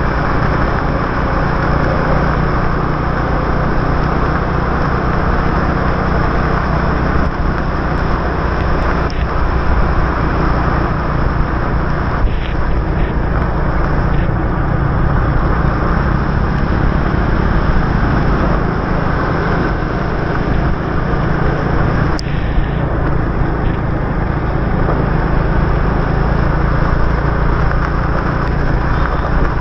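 Motorbike engine running steadily under way, with a constant hiss of wet road and rain. A couple of brief sharp clicks come about twelve and twenty-two seconds in.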